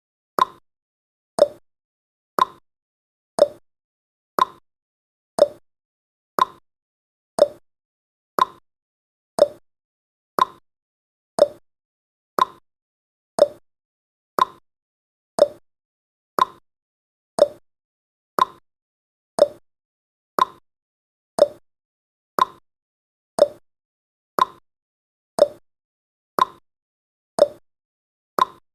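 Clock-style tick-tock sound effect marking each second of a countdown timer: one short click every second, alternating between a higher and a lower tick.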